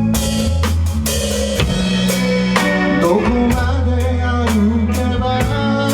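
Live band playing an instrumental passage: a drum kit keeping a steady beat under bass and electric guitar, with guitar notes bending in pitch around the middle.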